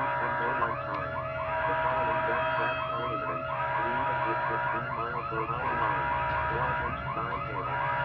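Several electronic sirens sounding over one another, with fast yelping sweeps of pitch layered over steady held tones.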